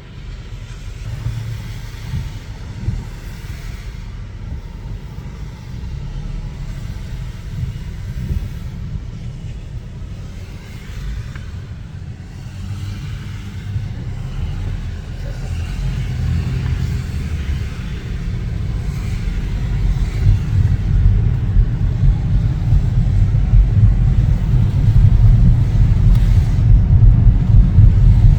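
Car driving: a steady low rumble of engine and road noise that grows steadily louder through the second half.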